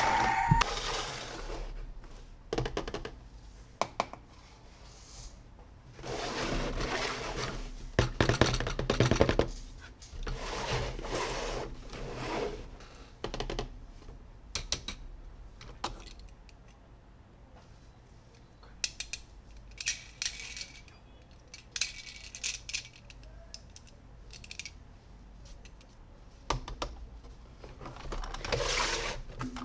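Hard plastic toy parts being handled: scattered clicks, taps and light clatter, with a few longer bursts of rustling or scraping, as toys come out of their packaging.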